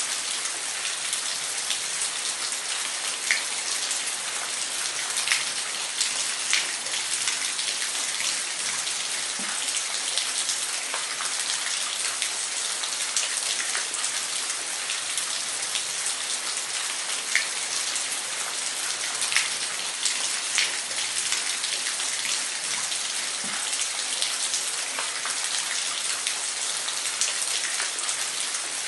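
Waterfall: a steady rush of falling water, with many small droplet splashes ticking through it.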